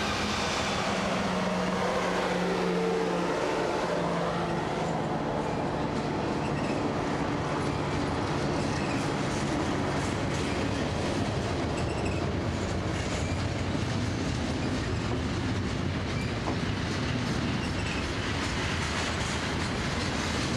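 Freight train passing close by: the trailing EMD SD40-2 diesel locomotive's engine drone fades over the first few seconds, then the steady rumble and clatter of double-stack container cars rolling over the rails.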